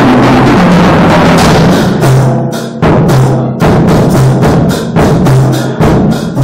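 Loud percussive music: drums beating. A dense stretch gives way after about two seconds to sharp strikes about once a second over a held low note.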